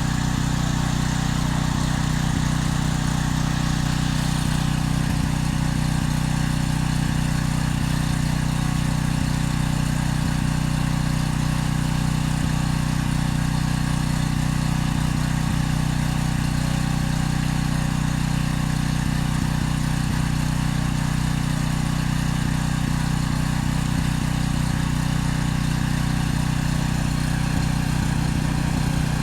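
An engine running steadily at a constant speed, an even hum that does not change.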